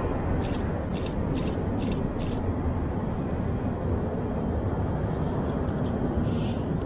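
Steady low rumble of a distant, very long double-stack container freight train running around a looping grade, with a row of faint ticks about two a second in the first couple of seconds.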